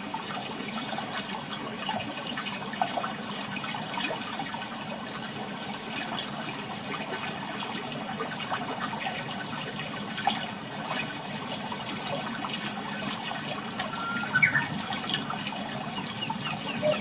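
Seawater washing and trickling over sand, with a steady run of small crackles. A bird calls briefly near the end.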